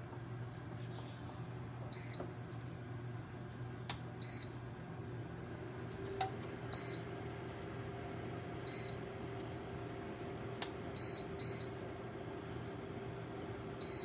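Dreo tower space heater's control panel giving short, high beeps as its buttons are pressed, about seven in all, two in quick succession near the end, with a few light clicks. Underneath, the heater's fan runs with a steady hum.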